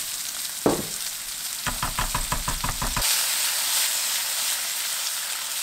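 Pork and king oyster mushrooms sizzling in hot oil in a frying pan as they are stir-fried after oyster sauce goes in. There is one sharp knock under a second in and a quick run of tapping around two seconds in, and the sizzle grows louder and brighter from about three seconds in as the pan is stirred.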